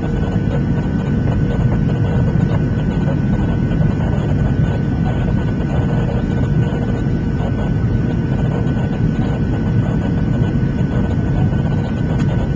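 Steady cabin noise inside a Boeing 737-700 in flight: a deep, even rush of CFM56-7B engine and airflow noise from a window seat, with a faint steady whine above it.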